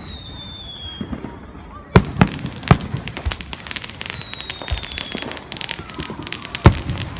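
Fireworks going off: a falling whistle fades out about a second in, then sharp bangs, a spell of dense crackling with another falling whistle, and a loud bang near the end.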